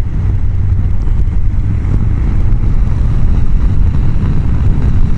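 Steady wind noise on a helmet-mounted microphone while riding a Honda CBR1000F at road speed: a loud, even low rumble with no clear engine note.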